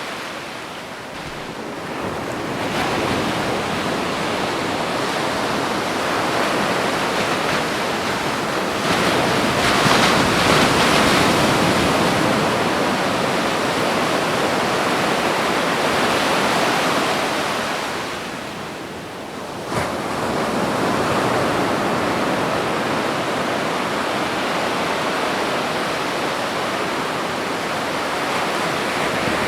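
Ocean waves breaking and washing on a beach: a steady surf rush that swells to its loudest about ten seconds in, and twice eases off before the next wave comes in, the second time about twenty seconds in.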